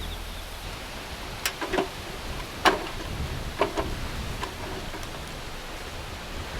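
Steel two-tier toolbox being handled, giving about five sharp metallic clicks and knocks over a steady low hiss. The loudest knock comes a little before the middle.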